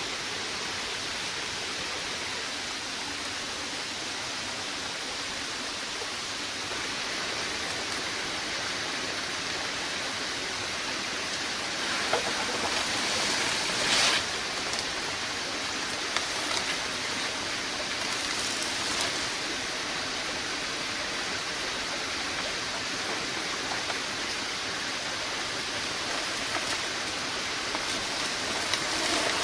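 A steady hiss of water, with a few brief louder swishes about halfway through.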